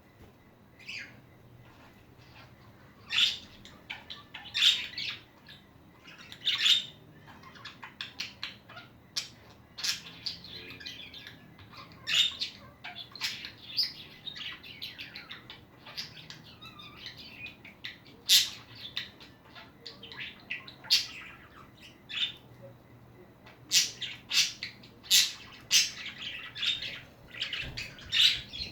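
Pet budgerigars chattering, with quick chirps and warbles and some sharper squawks coming in irregular bursts.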